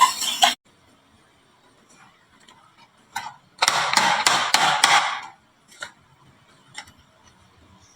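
Marbles clacking and rattling down a HABA wooden marble-run slope: a burst of rapid clacks about three and a half seconds in, then a few single clicks. A louder sound cuts off about half a second in.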